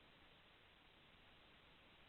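Near silence: only a faint, steady hiss, with no recorded sound.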